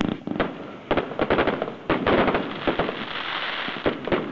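Aerial fireworks bursting: a rapid series of sharp bangs, then a dense stretch of crackling from about two seconds in, with a few more bangs near the end.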